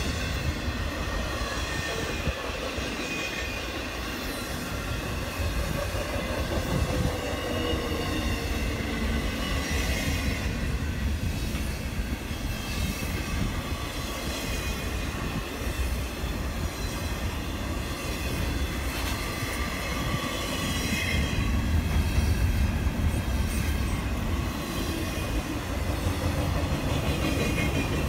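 Train cars rolling past steadily, a low rumble of wheels on rail with faint high-pitched wheel squeal.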